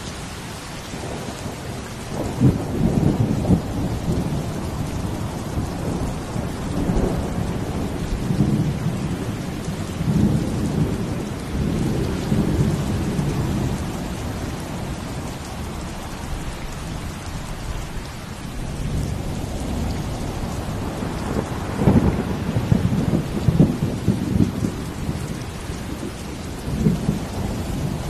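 Steady heavy rain hissing, with deep rumbling swells that rise and fall every few seconds, loudest about two seconds in and again around twenty-two seconds.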